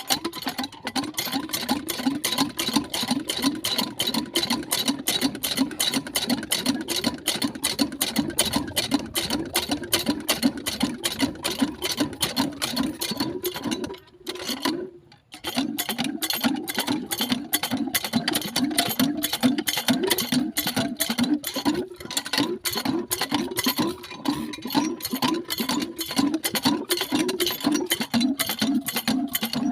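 Small engine driving a water pump, running with a rapid, even mechanical clatter, with a brief break about halfway through.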